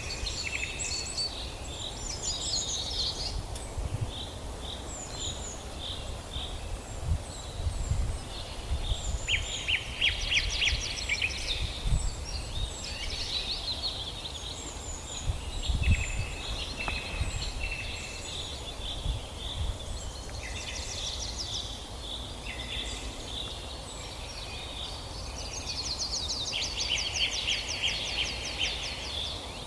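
Several songbirds singing at once in a forest, overlapping high chirps and rapid buzzy trills, over a steady low rumble.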